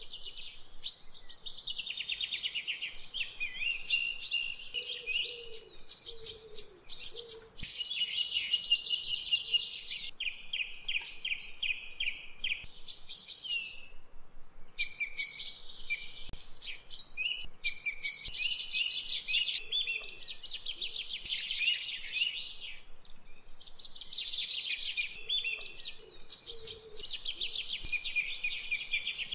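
Birds chirping and singing: several overlapping songs of rapid trills and repeated high chirps.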